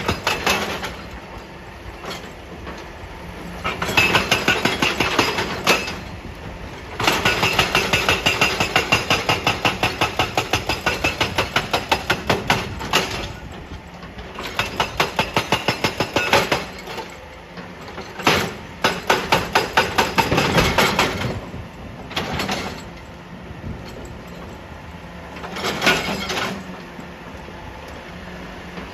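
Excavator-mounted hydraulic breaker hammering rock in several bursts of rapid, evenly spaced blows, the longest lasting about six seconds. The machine's diesel engine runs between the bursts.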